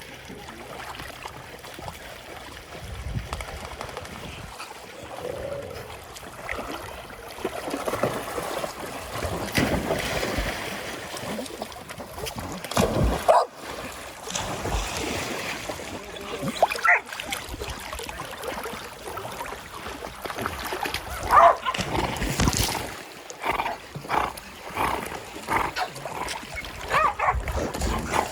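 Dogs giving short barks and whimpers now and then, over a steady wash of splashing water.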